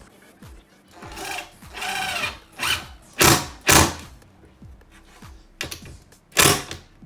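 Power drill running in about six short bursts, the loudest about three seconds in and near the end, over faint background music.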